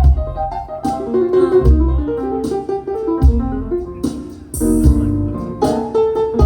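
Live jazz band playing an instrumental passage: guitar lines over a strong low bass note about every second and a half, with cymbal strokes.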